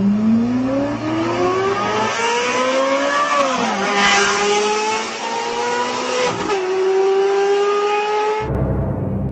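Race car engine sound effect accelerating through the gears: the pitch climbs, drops sharply twice as it shifts up, then holds steady. A deep low rumble comes in near the end.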